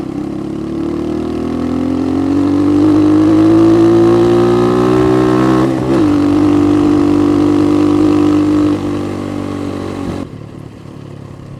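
Motorcycle engine under way, its note rising steadily as it pulls. About halfway the note breaks and falls slightly, then holds steady, and near the end it drops away as the throttle comes off.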